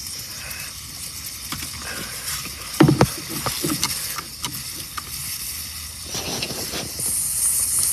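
Refrigerant leak on an HVAC line hissing steadily as it blows bubbles through leak-detection solution, the hiss louder near the end. A few knocks about three seconds in.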